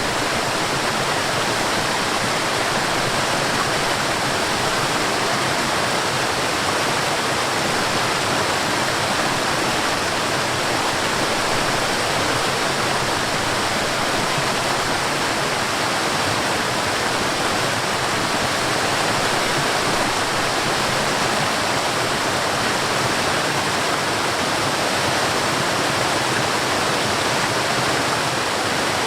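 Forest waterfall: water falling and rushing in a steady, unbroken full roar.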